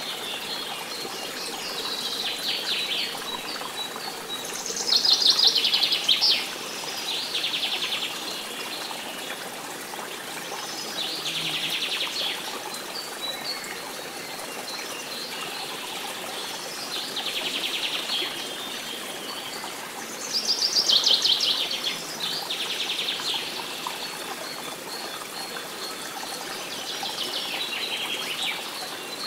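A songbird singing short, rapid trilled phrases every few seconds, the loudest about five and twenty-one seconds in, over a steady hiss.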